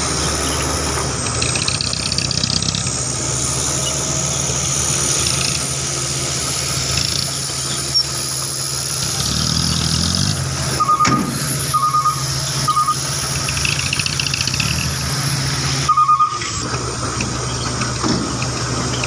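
Hino Dutro dump truck's diesel engine running steadily, with four short high beeps in the second half.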